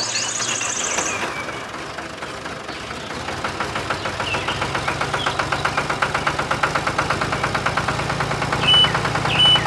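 Truck engine running: a steady low drone with a regular knock of about seven beats a second that becomes clearer after the first few seconds. Short high chirps sound near the end.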